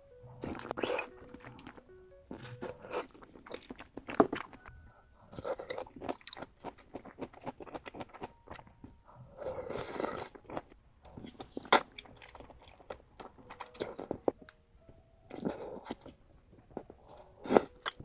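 A person biting and chewing crunchy food close to the microphone, in irregular bursts of crisp crunches, with a few sharper bites standing out, over quiet background music.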